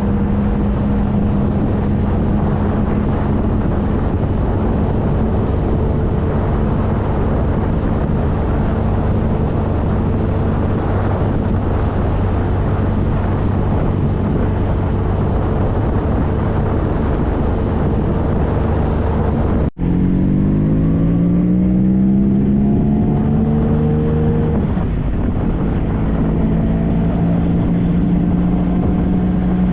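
2013 Triumph Trophy SE's three-cylinder engine running at a steady cruise under a rush of wind noise. After an abrupt cut about two-thirds of the way through, the engine accelerates with rising pitch, drops on a gear change, and settles into a steady cruise again.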